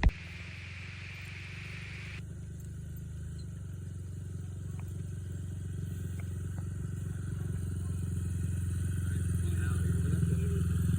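Small dirt bike engine running steadily, growing gradually louder as it comes closer. A sharp click sounds at the very start.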